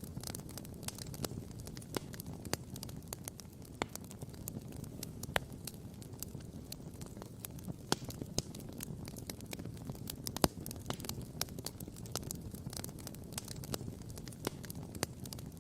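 Wood campfire crackling and popping: irregular sharp snaps, several a second, the loudest about ten and a half seconds in, over a steady low rumble.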